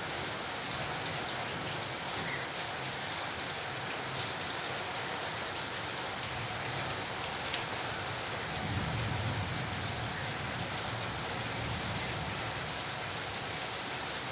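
Heavy rain falling steadily, a constant hiss of rain on surfaces. A low rumble swells for a few seconds about nine seconds in.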